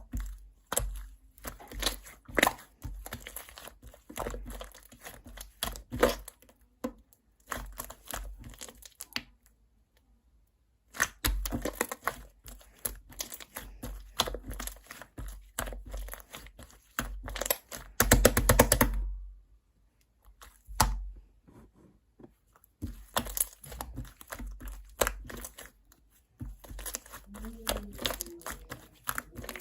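Chewy, sticky orange slime, made with carrot eraser slime mixed in, being worked by hand: stretched, folded and pressed, giving irregular bursts of sticky crackling and popping. There are short pauses about ten and twenty seconds in.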